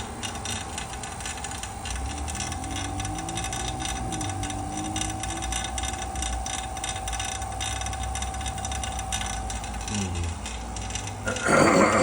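A steady machine whine over a low hum, the whine fading out near the end, followed by a short loud burst of sound.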